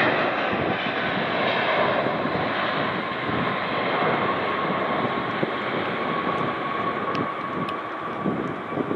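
Airbus A350's Rolls-Royce Trent XWB turbofan engines running, a steady jet noise with a whine that grows clearer in the second half and fades near the end.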